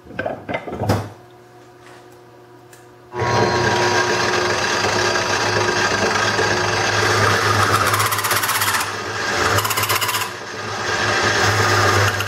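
A couple of handling knocks, then about three seconds in a Craftsman wood lathe switches on and runs steadily with a low hum. Twice near the end a turning tool cuts into the spinning bowl blank, adding a hiss.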